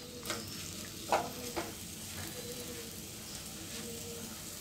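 Okra and sliced onions sizzling in oil in a non-stick pan on high heat, being browned. A few knocks of the spatula against the pan in the first two seconds, then steady frying.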